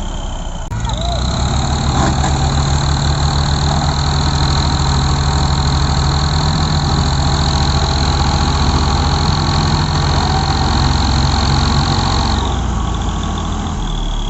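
Tractor diesel engine brought up to high revs about a second in and held there under heavy load, straining to pull a loaded sugarcane trolley through mud. A steady high whine runs over the engine, and both ease off near the end.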